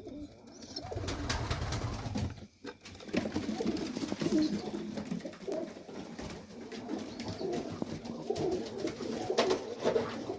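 Domestic pigeons cooing in a loft, several birds calling over one another, with a brief lull about two and a half seconds in.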